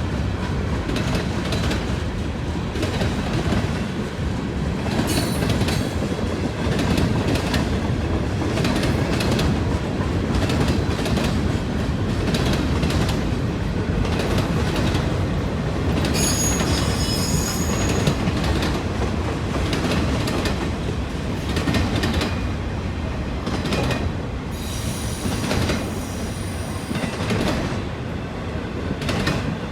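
Pan Am Railways freight train's cars rolling steadily past, wheels running over the rails, with high-pitched wheel squeal breaking in briefly about five seconds in, again just past the middle, and near the end.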